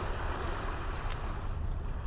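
Sea waves washing onto a small beach, a steady surf hiss, with wind rumbling on the microphone.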